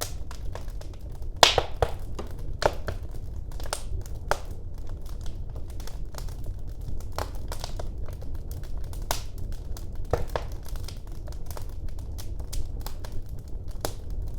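Wood fire burning in a fireplace: a steady low rumble of the flames with irregular crackles and pops, the sharpest pop about one and a half seconds in.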